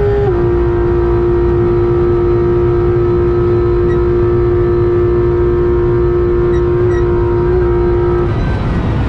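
Porsche 991.2 GT3 RS's naturally aspirated 4.0-litre flat-six at high revs, heard inside the cabin, holding a steady high pitch after a slight dip right at the start. The note cuts off about eight seconds in as the throttle closes, and starts rising again near the end.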